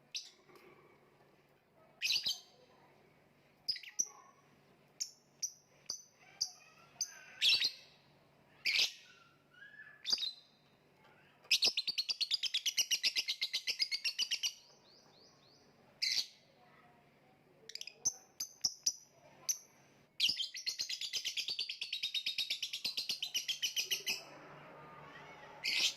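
A lovebird giving sharp, high single chirps, then breaking twice into a long, rapid chattering trill (the 'ngekek'): once about halfway through for about three seconds, and again near the end for about four seconds.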